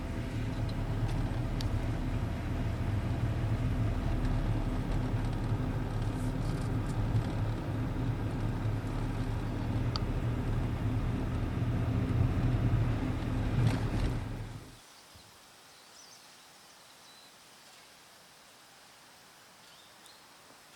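A vehicle engine idling steadily, then stopping about fifteen seconds in, leaving a faint outdoor background.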